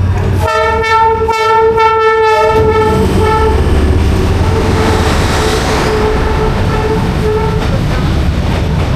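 A diesel train passing close by along a narrow street-side track. It sounds its horn, a loud chord of steady tones, for about two seconds near the start, with a fainter tone hanging on for several seconds after. Under the horn is a steady rumble and rattle of the locomotive and carriages.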